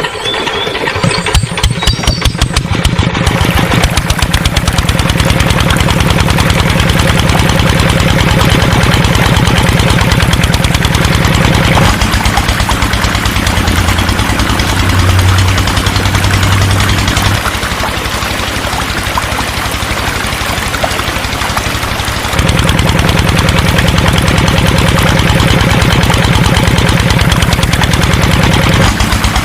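A small engine starts: separate strokes speed up over the first few seconds until it catches, then it runs steadily. Its pitch and loudness shift abruptly three times, at about 12, 17 and 22 seconds in.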